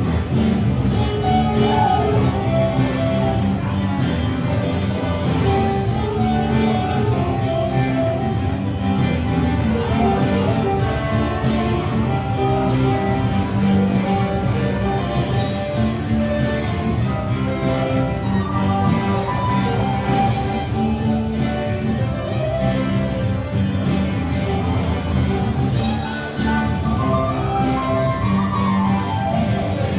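Rock band playing live: guitars over bass and a drum kit, with a steady beat that continues without a break.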